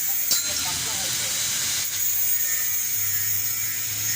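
A steady hiss over a low hum, with two short clicks, one near the start and one about halfway through.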